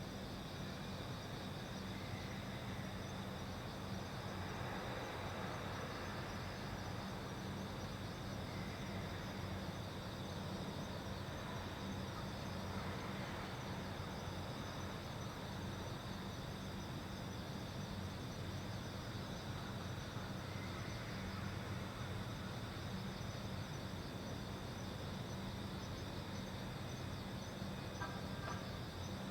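Insects, likely crickets, chirping steadily over a low, steady hum. A few faint clicks come near the end.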